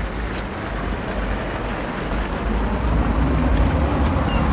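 Road traffic noise with a steady low rumble, growing louder about three seconds in as a vehicle passes close by.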